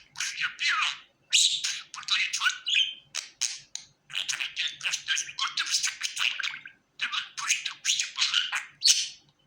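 Pet budgerigar chattering: quick runs of chirps and squawks, broken by brief pauses about a second, four seconds and seven seconds in.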